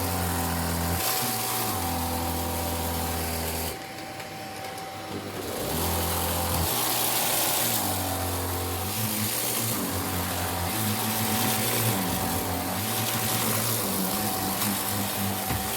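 Vacuum cleaner running with a steady motor whine and rushing air. Its low hum shifts and glides in pitch every second or two, and the airflow hiss drops for a couple of seconds about four seconds in.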